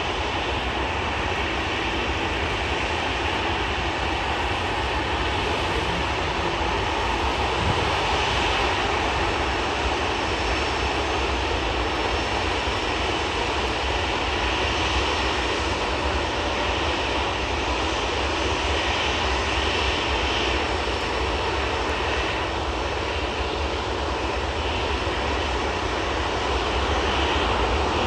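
Airbus A320's CFM56 jet engines running at take-off thrust: a steady, even noise with a strong deep rumble underneath, growing slightly louder near the end.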